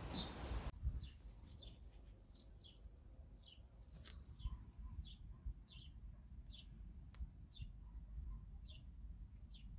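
A small bird chirping faintly and repeatedly: short, high chirps that slide downward, about one a second, over a low rumble.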